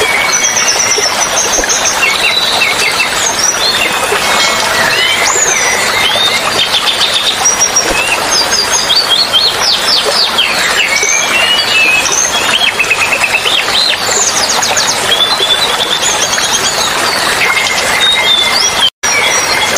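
Several small songbirds chirping, trilling and whistling over and over, mixed over the steady rush of running water. A split-second gap breaks the sound near the end.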